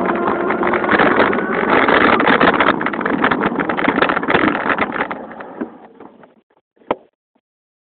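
Motorized bicycle with a Turbo Spokes exhaust being ridden: a loud, dense, rapid clatter that fades out over five to six seconds as it slows, then a single knock near seven seconds.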